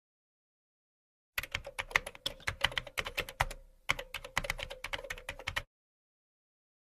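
A rapid, irregular run of sharp clicks, about seven a second, starting about a second and a half in, with a brief pause midway, and stopping about a second before the end.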